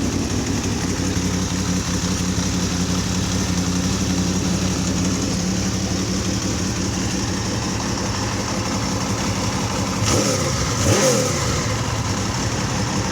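Honda VFR800 motorcycle's V4 engine idling steadily, then revved up and back down twice in quick succession about ten seconds in before settling back to idle.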